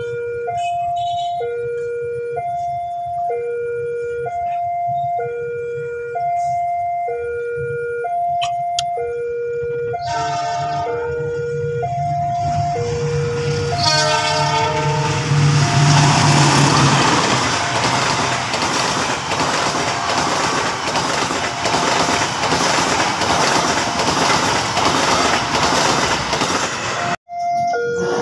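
A level-crossing warning alarm sounds a steady two-tone high-low pattern, about one cycle a second. Partway through, a train horn blows and the passing train's rush and clatter of carriages drowns the alarm out. The sound cuts out for an instant near the end and the alarm is heard again.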